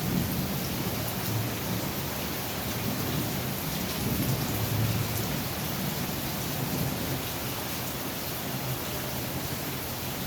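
Heavy rain pouring steadily, with a low rumble that swells and eases underneath.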